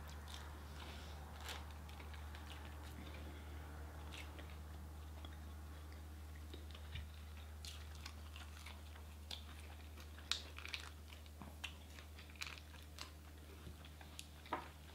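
Mouth sounds of eating a burger: quiet chewing and biting with short wet clicks and smacks, coming more often in the second half, over a steady low hum.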